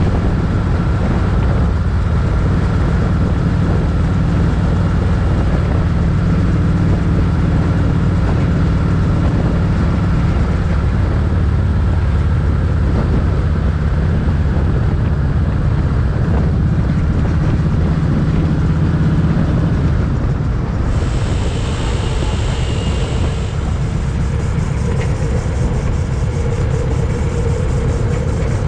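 Motorcycle engine running steadily at cruising speed, with wind and road noise rushing past. A brief higher hiss joins for a couple of seconds about three quarters of the way through.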